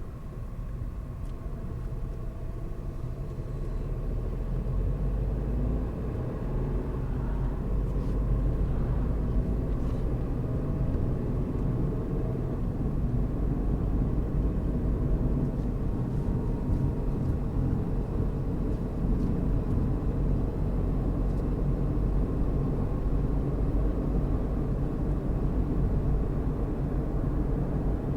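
A car driving along a road: a steady low rumble of engine and tyre noise that grows louder over the first several seconds, then holds steady.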